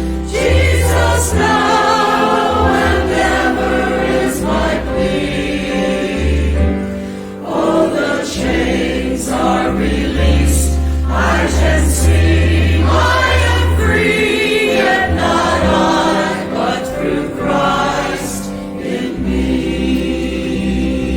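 Choir singing a hymn in several voices over sustained low accompanying notes.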